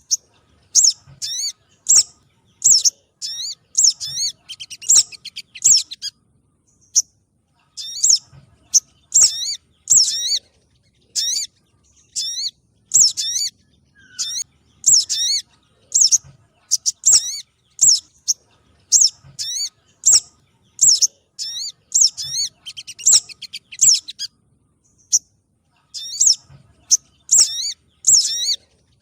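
Bird lure recording of sogon trotol calls, mixed with other sogon calls: rapid, high, chirping notes with sharp pitch sweeps, repeated in short bursts about once a second, with a couple of brief pauses.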